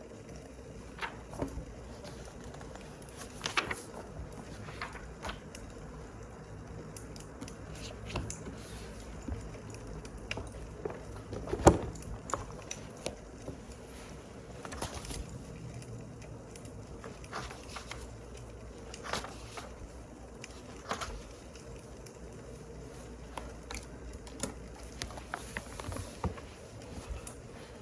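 Wood fire crackling, with irregular sharp pops over a low steady rush, one pop about twelve seconds in much louder than the rest.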